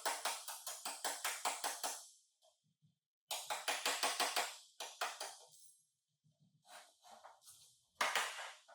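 Rapid hammer blows on sheet metal, about six a second, in two quick runs, then a few scattered taps and one harder strike near the end.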